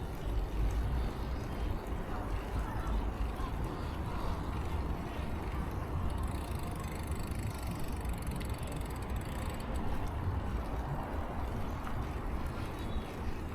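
Steady wind rumble on the camera's microphone while riding a bicycle, with the bike's tyres running on the road.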